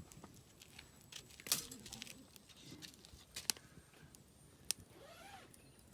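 Campfire wood burning with scattered sharp crackles and pops, the loudest about a second and a half in and three and a half seconds in.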